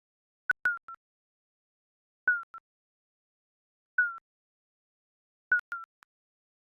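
Digital countdown timer beep sound effect: short, high blips that dip slightly in pitch, coming in little groups of one to three about every one and a half to two seconds, with dead silence between.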